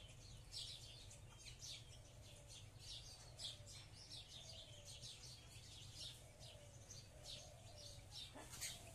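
Small birds chirping, faint: many short, high chirps a few times a second, over a faint low hum.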